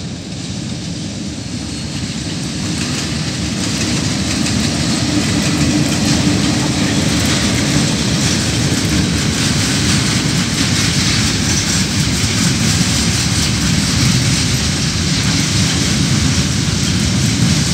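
KiwiRail coal train passing: diesel locomotives draw near, the sound growing louder over the first few seconds, then a steady rumble of wheels on rails as loaded coal container wagons roll by.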